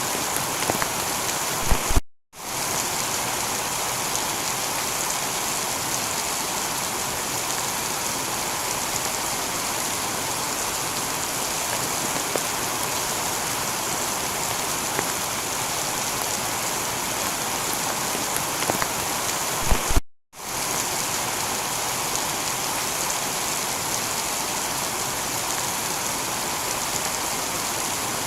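Steady heavy rain falling on a tiled roof, with scattered sharper drop hits. The sound cuts out completely for a moment twice, about two seconds in and about twenty seconds in.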